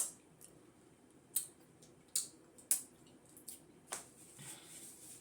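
Wet mouth smacks and clicks of someone eating fufu and soup at close range, about five sharp smacks at uneven intervals.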